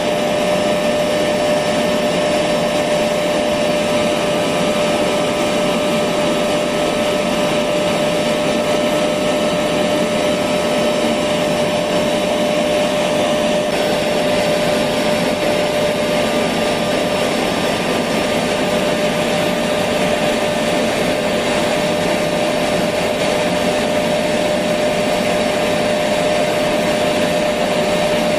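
Electric vacuum cleaner running steadily with an even rushing hiss and a constant motor whine, played as a continuous sleep sound for babies.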